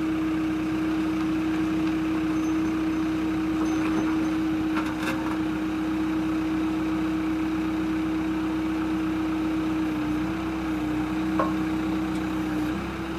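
New Holland B95B backhoe loader's diesel engine running steadily with an even whine, with a slight change in pitch near the end and a few faint clicks.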